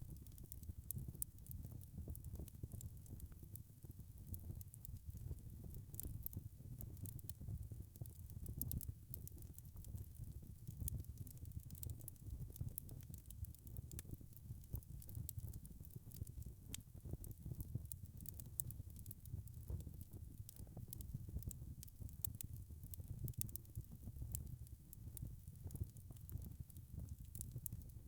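Log fire crackling in a fireplace: frequent sharp crackles and pops over a low, steady rumble of burning.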